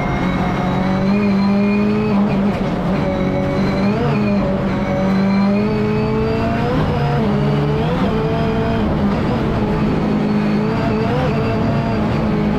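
Rally car engine running hard at high revs, its pitch mostly steady but dipping and rising briefly about four times.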